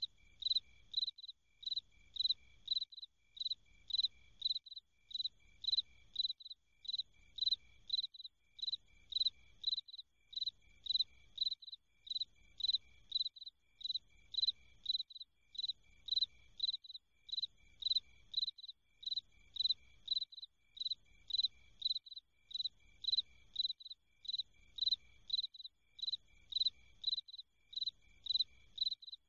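An insect chirping steadily: high-pitched, evenly spaced chirps, each a quick run of pulses, repeating about once a second without a break.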